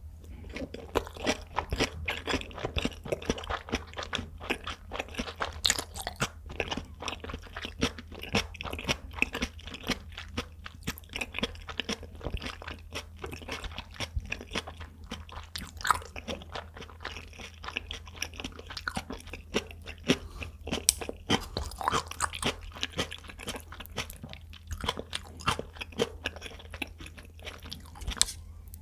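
Close-miked chewing of a mouthful of raw tuna sushi: a dense, irregular run of small clicks and smacks, with a short pause near the end.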